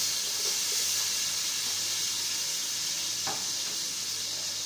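Chopped tomatoes sizzling as they hit the hot pot of browned onions. The sizzle starts suddenly and loudly and eases a little, with one light knock about three seconds in.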